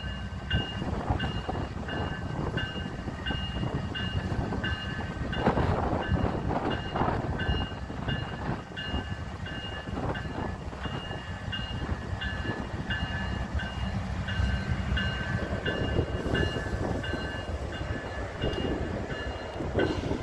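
Loaded Union Pacific coal train getting under way: a low rumble of the cars with sharp clanks of the couplers as the slack runs out along the train. A high ringing tone repeats about twice a second throughout.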